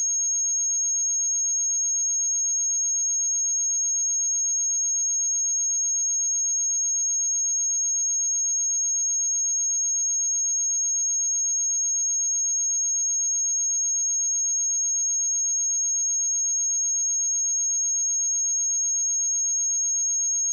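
A steady, high-pitched pure sine-wave test tone at 6523 Hz, held at one pitch and level.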